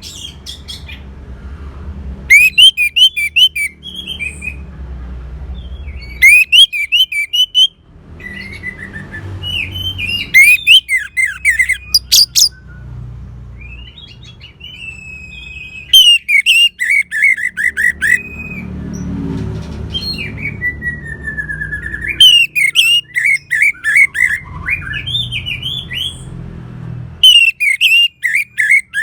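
Orange-headed thrush singing in short, varied phrases every few seconds, mixing clear whistled notes with very rapid, high ticking trills.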